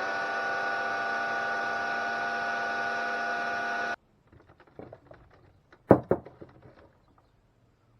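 Brush drive motor of a VAX vacuum cleaner floor head running on test with a steady whine, then cutting off suddenly about four seconds in. A few light clicks and a sharp knock follow as the parts are handled.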